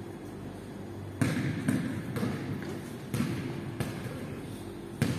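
Basketball bouncing on an indoor gym court: a few irregular thuds, each echoing in the hall, over a steady low hum.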